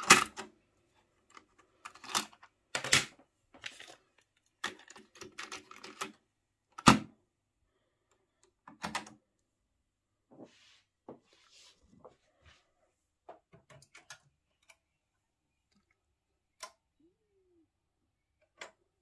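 A series of irregular sharp clicks and knocks, several a second at first, then fewer and fainter after about ten seconds.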